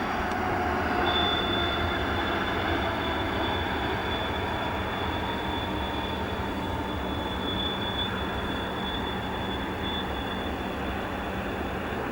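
Boeing 777-200ER's twin jet engines at takeoff thrust: a steady, loud rumble with a high, thin whine held over it from about a second in.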